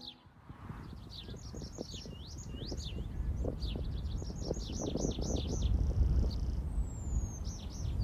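Small birds chirping: runs of quick high notes that rise and fall, several to a second, broken by short pauses, over a low rumble that grows louder toward the end.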